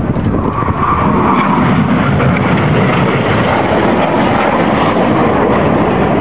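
Loud, steady jet engine noise from BAE Hawk T1 aerobatic jets flying their display overhead, with a higher whine coming through about a second in.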